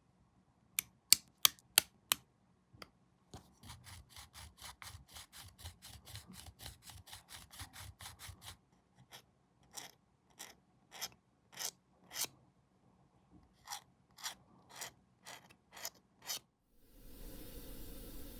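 Hobby file or sanding stick scraping plastic model parts: a few sharp clicks first, then a quick run of short strokes at about five a second, then slower single strokes about every half second. A steady hiss starts near the end.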